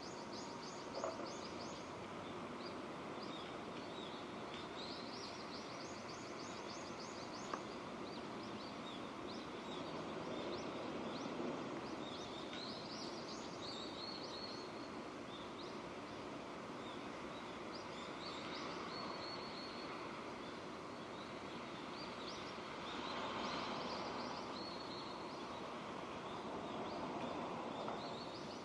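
Steady rain falling, with small birds chirping in short runs over it.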